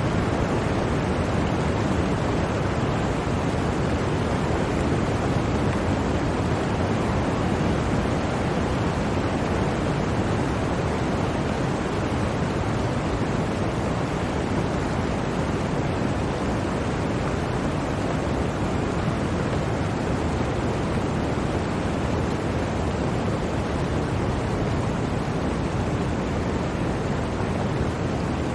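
Blizzard wind: a steady, even rushing noise, deep and full, with no separate gusts or other events.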